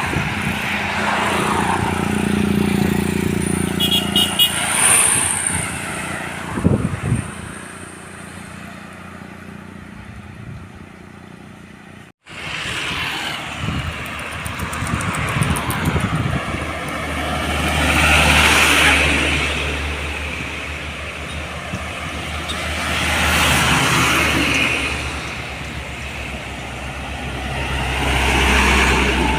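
Road traffic including heavy diesel trucks passing on a road. Engine and tyre noise swells and fades as each vehicle goes by, three times in the second half, with a brief cut-out about twelve seconds in.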